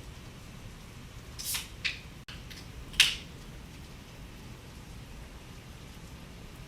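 Steady rain falling during a thunderstorm, with a few short sharp taps in the middle, the loudest about three seconds in.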